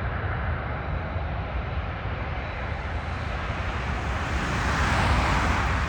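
Airbus A380 jet engines during landing: a steady rush of jet noise over a low rumble, swelling to its loudest about five seconds in.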